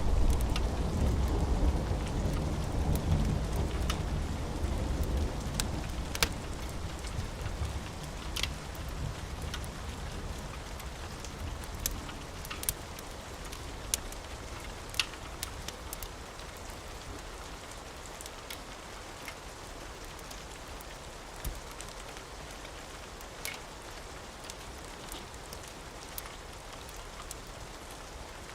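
Steady rain, with a low rumble of thunder that dies away over the first several seconds. Scattered sharp pops of a crackling wood fire sound over the rain.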